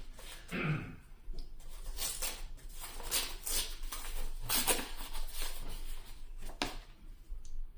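A foil Yu-Gi-Oh booster pack being torn open and handled: irregular crinkling and crackling of the wrapper with sharp little clicks, and the cards rustling as they are pulled out.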